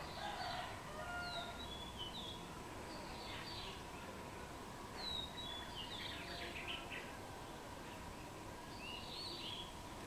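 Wild birds chirping: scattered clusters of short, high, quick falling notes, with a few seconds of pause between groups.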